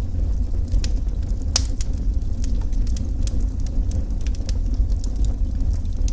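Wood fire burning in a fireplace: a steady low rumble of flames with scattered sharp crackles and pops, one louder pop about one and a half seconds in.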